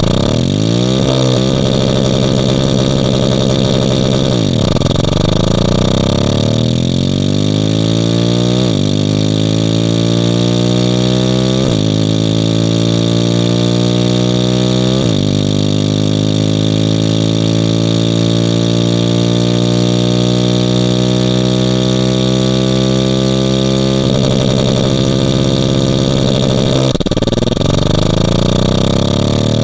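A loud, steady engine-like drone whose pitch climbs and then drops abruptly several times in the first half, like an engine revving up and shifting through gears, then holds steady before wavering near the end.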